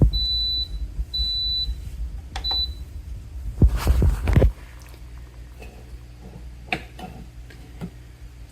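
Three high-pitched electronic beeps, two longer and a short third one, over a low hum that stops about four and a half seconds in, followed by faint scattered clicks.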